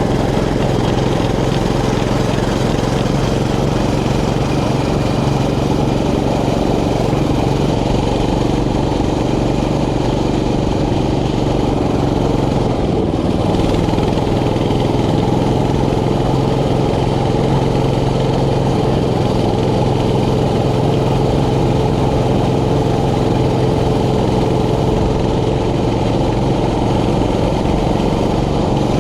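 Mini bike's small engine running steadily while riding, its pitch drifting a little with the throttle.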